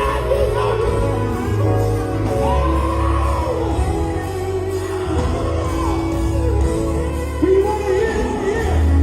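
Live gospel quartet music: a lead voice sings in sliding, drawn-out lines over a steady bass and held chords, with shouts.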